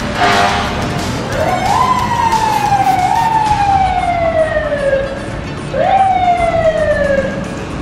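Emergency vehicle siren wailing, its pitch climbing quickly and then sliding slowly down, about three times over. A short loud blast comes at the very start.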